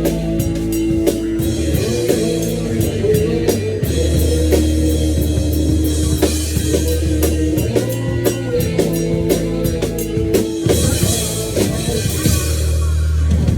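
Rock drum kit played along with a hard rock track: dense kick, snare and cymbal strokes over sustained electric guitar and bass.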